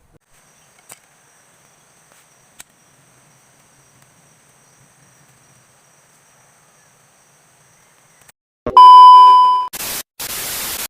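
A faint, steady high-pitched whine with two soft clicks, then a loud electronic beep tone lasting about a second, followed by two short bursts of static-like hiss.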